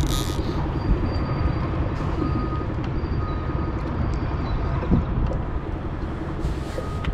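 Boat engine running with a steady low rumble, with a faint high beep repeating about once a second over it.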